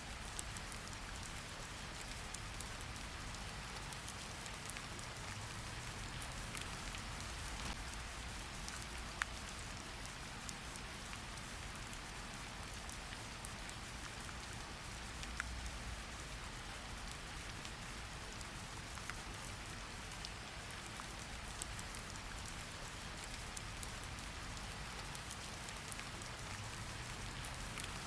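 Steady rain falling on a surface, a continuous hiss dotted with many small individual drop ticks and a low rumble underneath.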